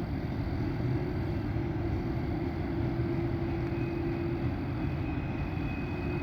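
Empty grain freight train rolling past, a steady low rumble with faint high tones near the end.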